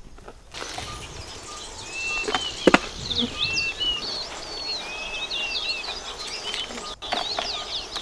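Several birds chirping and whistling busily, with short level whistles and quick falling chirps. A single sharp knock about two and a half seconds in.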